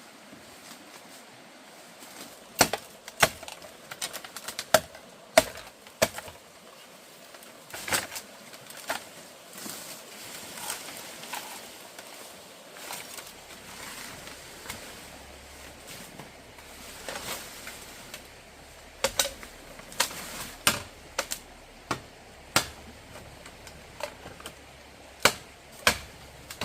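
Sharp knocks on wood, coming singly and in short runs at irregular intervals, from work on a wooden chicken coop.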